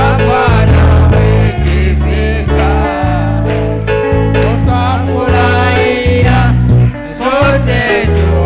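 Gospel song: a singing voice over a heavy bass accompaniment that moves in held notes, changing about once a second.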